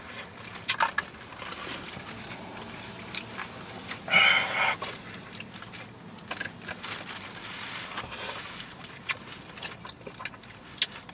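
A person eating: chewing, with small clicks and scrapes of utensils and takeout containers, and one louder, noisy burst lasting about half a second, about four seconds in.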